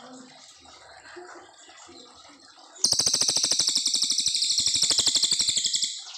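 A brown cililin sings one long, fast trill of rapidly repeated high notes. It starts about three seconds in and runs for about three seconds, ending abruptly.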